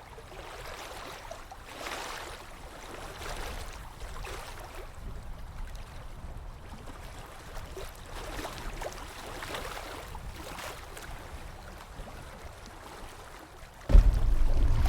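Water lapping and splashing against a small boat's hull in irregular soft swells. About a second before the end a sudden loud low rumble begins.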